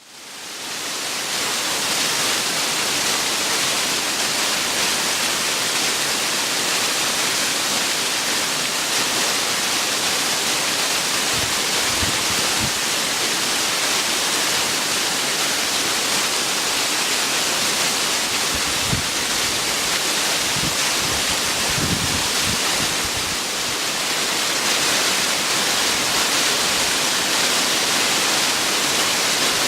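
Waterfall pouring: a steady, dense rushing hiss that fades in over the first couple of seconds, with a few faint low bumps partway through.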